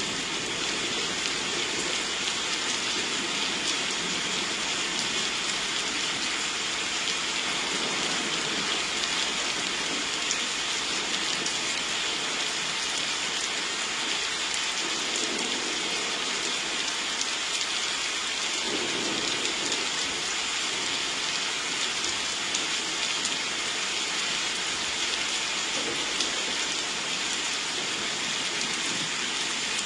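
Steady rain falling, an even hiss of rain with many fine drop patters, from a rain ambience recording.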